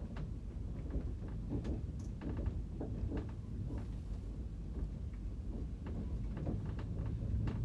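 Moving train heard from inside the carriage: a steady low rumble with irregular clacks and rattles, about two a second, from the wheels on the track and the coach body.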